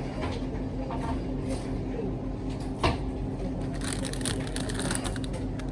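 Grocery store background: a steady low hum with faint voices, a single sharp click about three seconds in, and from about four seconds in a crackling rustle of something being handled.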